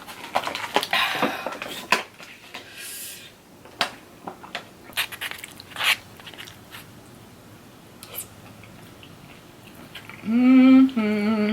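Close-miked eating sounds: chewing and biting with scattered wet mouth clicks, and a short breath partway through. Near the end a brief voiced hum of about a second.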